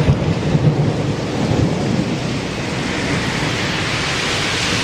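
Heavy rain in a thunderstorm: a dense, steady hiss, with irregular low rumbling in the first couple of seconds.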